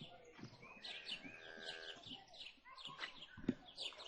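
Many small birds chirping busily, a quick run of short high falling chirps, with a short thud about three and a half seconds in.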